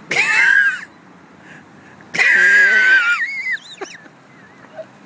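Two high-pitched, strained squeals from a person, one short and one about a second long, followed by a few fainter squeaky wheezes.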